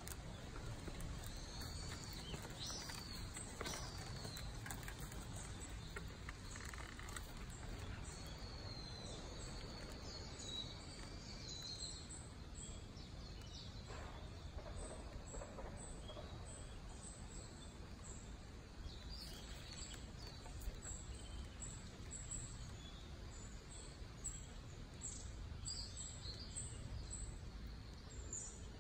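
Small birds chirping and calling among the trees over a steady low rumble, with short high chirps coming thick and fast in the second half.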